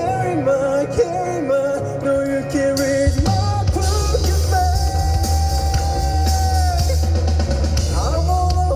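Live rock band playing with singing. Drums, bass and cymbals come in about three seconds in under a long held note.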